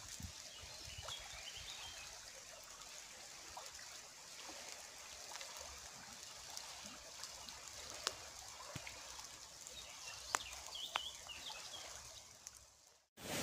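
A small stream trickling and babbling, with a few faint bird chirps. The sound drops away shortly before the end.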